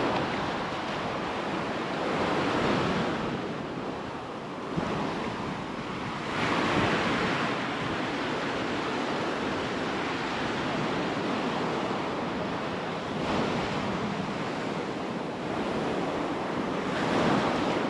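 Ocean surf washing onto the beach, a steady rush that swells and eases every few seconds, with wind on the microphone.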